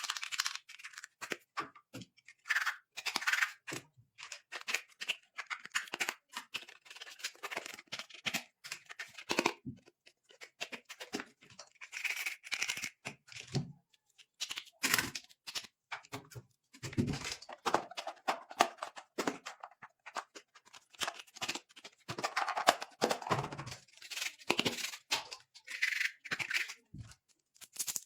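Toy packaging being unwrapped: irregular crinkling and tearing of plastic and paper, with snips of scissors and a few dull knocks, in short bursts with brief gaps.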